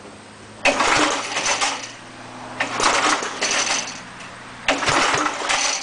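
Small Briggs & Stratton engine on an air compressor being pull-started three times, each pull about a second and a half of cranking, about two seconds apart, without the engine catching.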